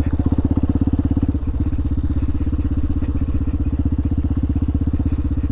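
Hawk 250 dual-sport motorcycle's single-cylinder engine running steadily, with a brief dip about a second and a half in.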